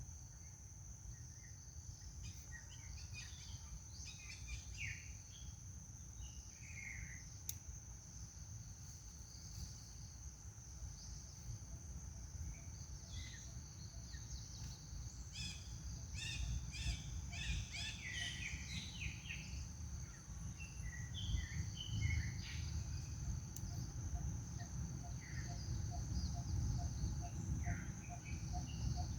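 Outdoor ambience: a steady high-pitched insect drone of crickets or cicadas, with scattered bird chirps that grow busiest about halfway through, over a low rumble.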